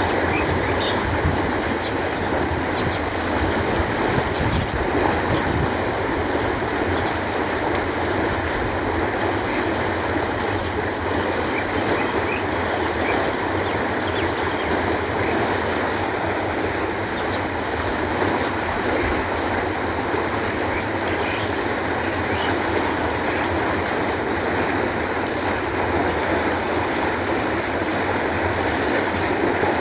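Canal water flowing steadily, an even rushing sound with no pauses.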